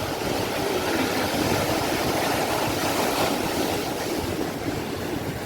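Sea waves washing on a shore: a steady rush of surf.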